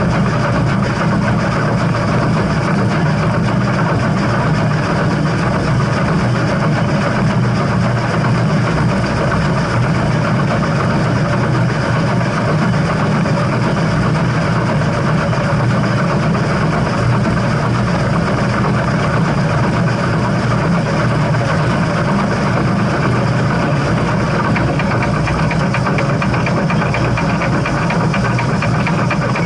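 A steam train running: a steady, continuous rumble with no breaks or whistle.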